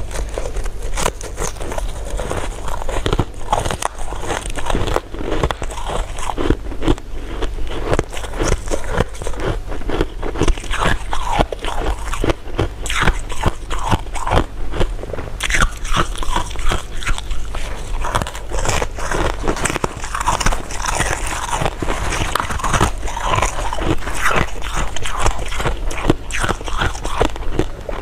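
Close-miked biting and chewing of candy: dense, irregular crunching and wet clicking, under a steady low hum.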